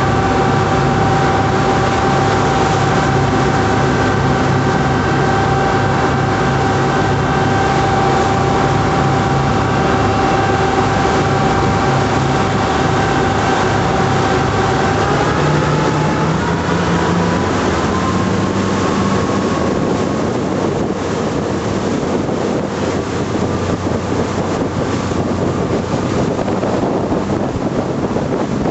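12 m patrol boat's engines running steadily, then rising in pitch about halfway through as the boat speeds up. After that, the engine tones give way to the rush of wind and water.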